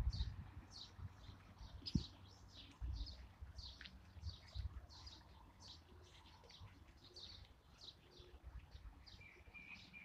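A small bird chirping repeatedly, a string of short high chirps about two or three a second, over a faint low rumble.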